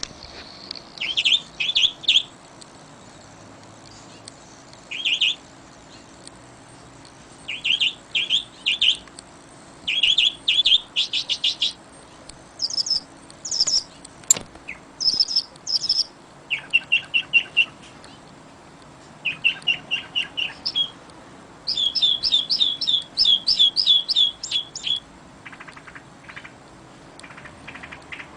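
Songbirds singing: short runs of quick, high chirping notes every few seconds, with several different phrases, the longest run about three quarters of the way through, over a faint steady hiss.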